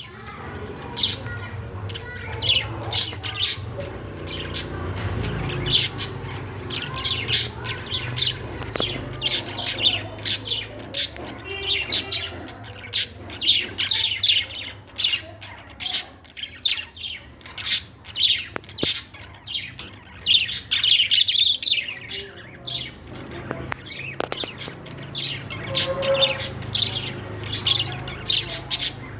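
Small birds chirping: many short, sharp high calls repeating throughout, one or two a second, over a low steady hum.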